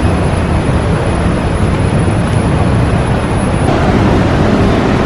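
Loud, steady roar of Athirappilly waterfall's falling water, an even rushing noise heavy in the low end.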